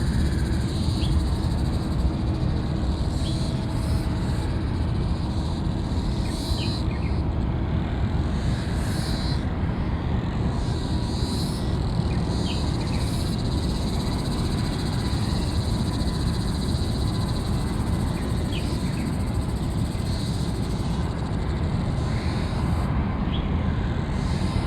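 Steady low rumble of the Airbus A380's four Rolls-Royce Trent 900 jet engines at takeoff power. Short high chirps recur over it every second or two.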